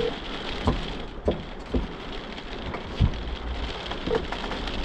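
Torrential rain falling steadily as an even rush, with a handful of sharp taps of heavy drops or drips scattered through it.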